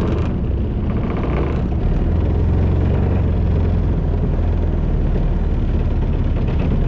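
Aquanami JetAngler motorized kayak's engine running at idle speed while underway, a steady low drone that grows a little louder about two seconds in.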